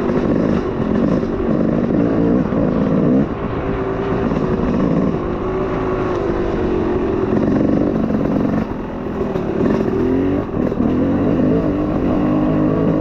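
Small off-road vehicle engine running at low speed on a trail ride, its revs rising and falling again and again with the throttle.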